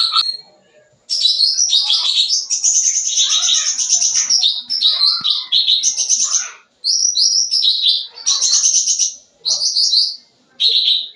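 Cucak ranting singing a full, busy song of rapid high chirps and trills. It starts about a second in and runs in long phrases broken by two short pauses.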